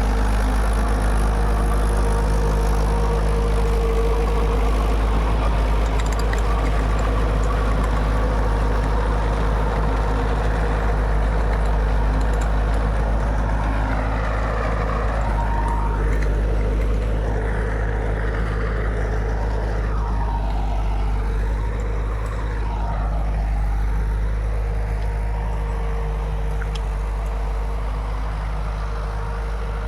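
Mahindra 475 DI tractor's diesel engine running steadily, with a constant low drone.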